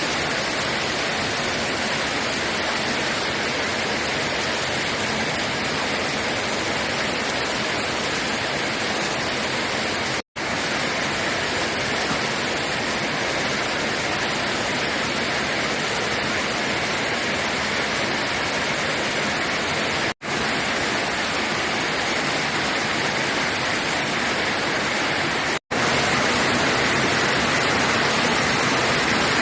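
Steady rushing noise of heavy rain and running water. It breaks off for an instant three times, about ten, twenty and twenty-five seconds in, and is a little louder after the last break.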